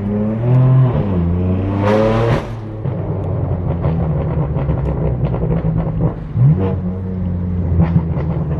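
Straight-piped BMW M4 F82 twin-turbo inline-six accelerating through two gears, the pitch climbing and dropping at each shift, with a sharp crack at the second shift. It then settles into a steady cruise with scattered exhaust crackles and a short rise in revs a little after halfway.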